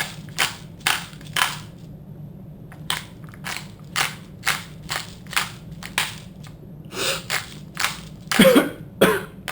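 Pepper mill being twisted over a pizza, a crunching grind about twice a second with a short pause about two seconds in. A brief pitched sound comes near the end, the loudest moment.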